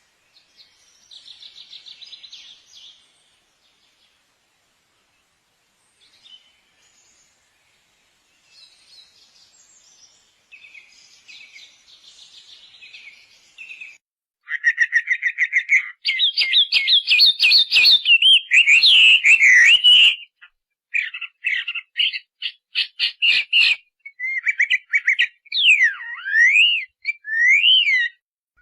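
Bird calls: faint chirping at first, then from about halfway much louder rapid trills and chattering chirps. Near the end come sharp whistles that slide up and down in pitch.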